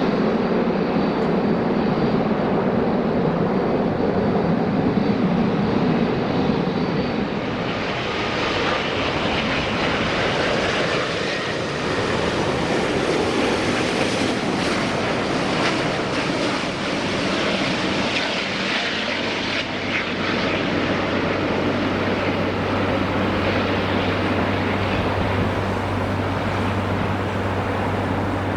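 Airbus A380 landing: the steady jet noise of its four engines, loud and close. About seven seconds in it changes abruptly to a second A380 on approach.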